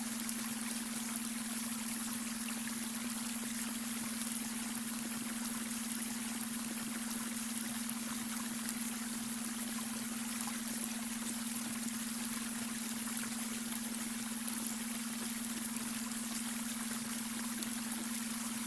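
Babbling brook running steadily, with a continuous low hum underneath: the beta-wave brainwave tone blended into the water sound.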